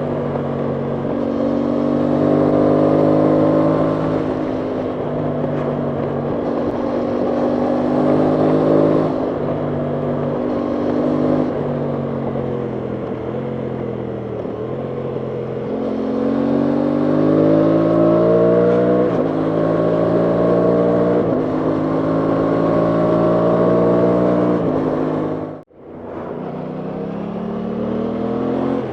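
Aprilia Tuono 660 Factory's parallel-twin engine pulling through the gears while riding, its pitch climbing under throttle and dropping back at each shift or roll-off, over a haze of wind noise. The sound cuts out abruptly for a moment about three-quarters of the way through, then returns.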